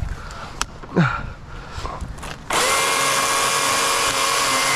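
A few knocks, then about two and a half seconds in an electric chainsaw starts suddenly and runs at a steady, high whine. Its chain is loose, which the owner says needs tightening.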